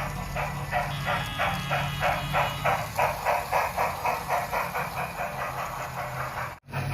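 Big Boy model steam locomotive's sound effects: a rhythmic steam exhaust chuff, about five beats a second, over a low hum. It cuts off abruptly near the end.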